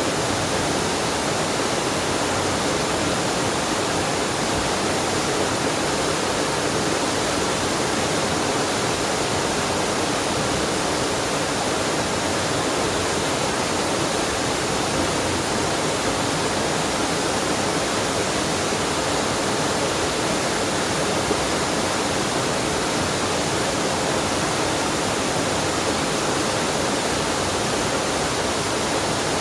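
Waterfall and mountain stream rushing, a steady, unbroken roar of falling and flowing water.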